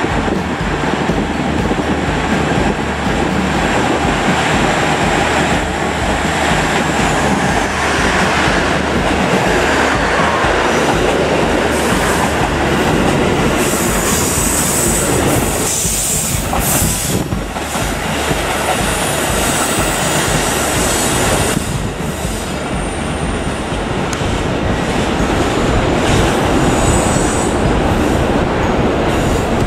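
Trains running through a large station: a KiHa 85 diesel railcar's engines with a low, even throb as it draws in, then an electric train passing close. Wheels clatter over rail joints and points, with high-pitched wheel squeal coming and going through the second half.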